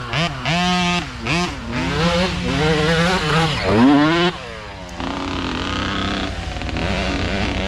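Several small dirt bike engines revving, the nearest one rising and falling in pitch with repeated throttle blips. About four seconds in it drops away, and the others run on at a steadier pitch.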